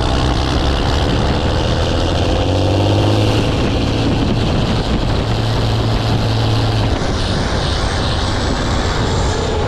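A farm tractor engine running steadily, a loud low drone whose note shifts about seven seconds in.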